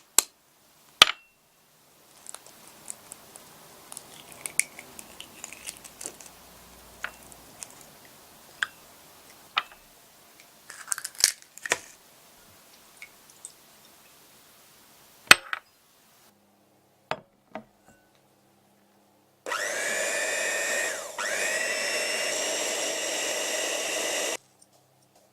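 Light clinks and taps of kitchen utensils, then a small electric motor runs steadily for about five seconds, its pitch dipping briefly about a second and a half in, and cuts off.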